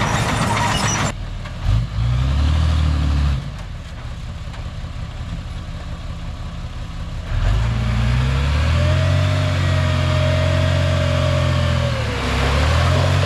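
Diesel engine of heavy earthmoving machinery running hard under load, with a wavering whine over the engine note in the second half. A harsh, noisy rush fills the first second, and the sound changes abruptly several times, with a quieter stretch in the middle.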